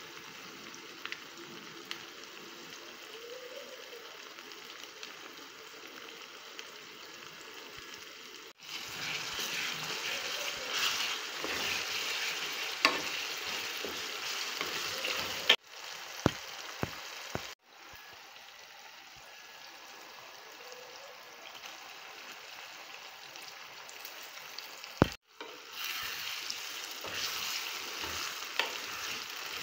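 Tomato sauce frying and sizzling in a metal pot while a wooden spoon stirs it. The sizzle swells louder in two stretches, about a third of the way in and again near the end, with a few sharp knocks.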